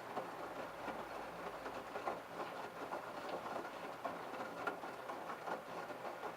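LG F1222TD direct-drive washing machine in its prewash: the drum turning with wet laundry tumbling and splashing, a busy irregular patter over a faint low motor hum.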